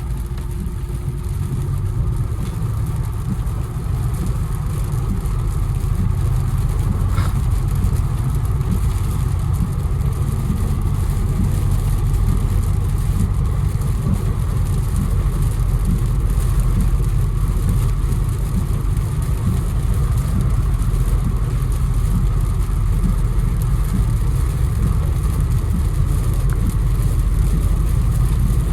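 Infiniti Q60 coupe driving on a rain-soaked road: a steady low rumble of engine and tyres with a hiss of water over it, getting a little louder over the first few seconds.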